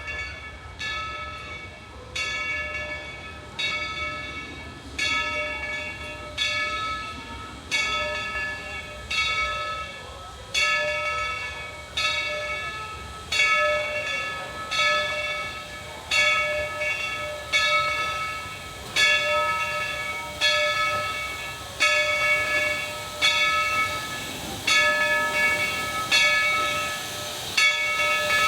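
Steam locomotive's bell ringing steadily, struck a little more than once a second, each stroke ringing on before the next.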